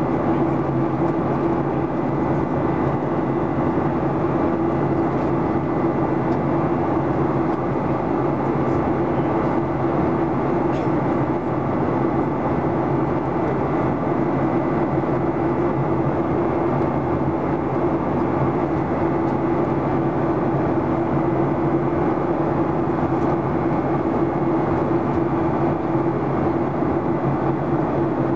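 Steady cabin noise inside a Boeing 737-800 in flight: air rushing past the fuselage and the drone of its CFM56-7B turbofans, with a steady low hum running through it.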